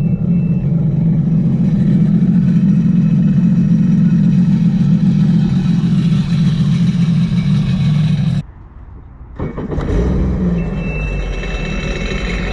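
Supercharged Rotax three-cylinder engine of a 2022 Sea-Doo RXP-X 300 personal watercraft running through a Riva free flow exhaust, a steady, deep exhaust note with a sporty tone. It cuts off suddenly about eight seconds in and comes back a second and a half later, a little quieter.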